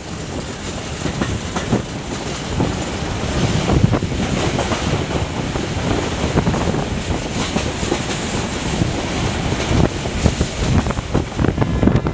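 Passenger train running along the track, heard from the carriage roof: a continuous rattle and clatter of wheels and carriages over the rails, getting louder about two seconds in and then holding steady.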